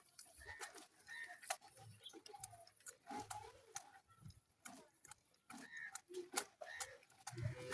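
Faint scattered clicks and taps, with short calls from farm animals or birds in between.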